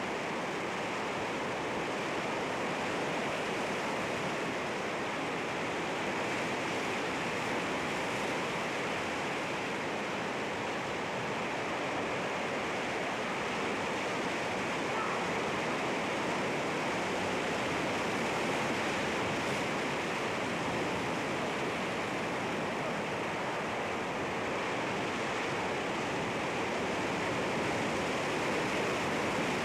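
Sea waves breaking on rocks: a continuous rush of surf that swells gently now and then.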